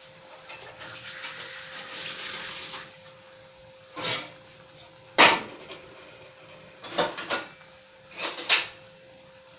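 Kitchen utensil sounds: a soft hiss for about two seconds, then about six sharp knocks of a metal utensil against a pan, coming singly and in pairs.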